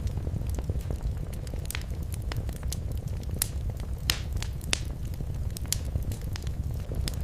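Wood fire burning in a fireplace: a steady low rumble of flame with frequent irregular crackles and sharper pops.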